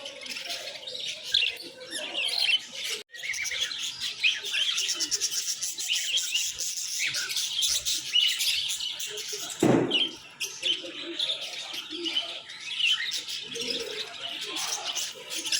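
Many small cage birds chirping at once, a dense, continuous twittering of short high calls. About ten seconds in comes one brief louder, lower sound.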